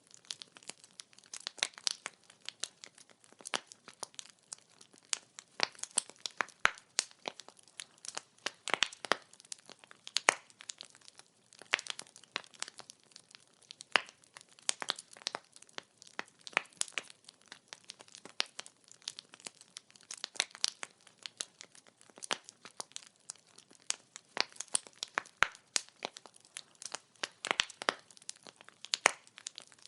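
Wood fire crackling: burning firewood giving off dense, irregular snaps and pops, several a second, over a faint hiss.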